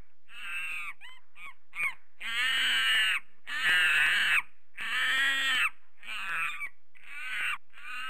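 A bird giving a series of pitched calls. It starts with several short calls, follows with three longer, louder calls of nearly a second each in the middle, and ends with a few shorter ones.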